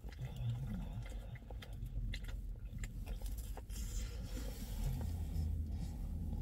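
A man biting into and chewing a thick slice of pepperoni pizza close to the microphone: mouth noises with small clicks and crackles, over a low rumble.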